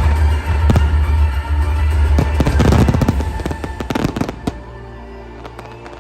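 Fireworks bursting and crackling over loud music with a heavy bass. About four seconds in, the bangs and the loud music drop away and a quieter, steadier sound is left.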